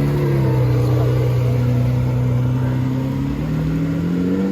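A car engine running at steady low revs, its pitch rising in the last second or so as the revs come up.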